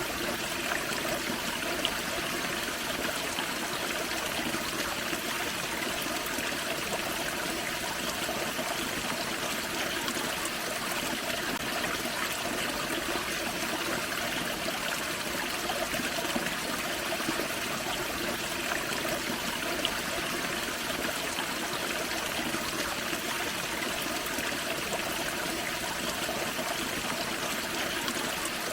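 A small waterfall splashing into a forest creek, with the creek water rushing and trickling steadily.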